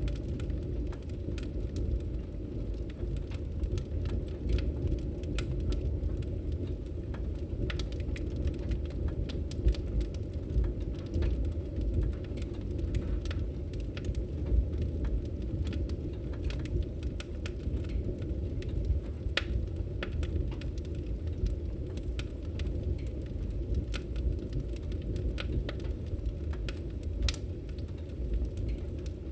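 Wood fire crackling in a fireplace: a steady low rumble of flame with scattered sharp pops and snaps.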